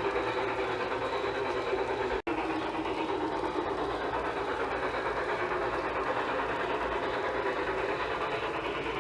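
LGB G-scale model locomotive running on garden railway track: a steady whir of its motor, gears and wheels on the rails. The sound cuts out for an instant about two seconds in.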